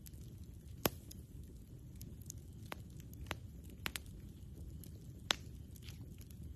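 Campfire crackling: sharp, irregular pops from the burning wood, the loudest about a second in and near the end, over a steady low rumble.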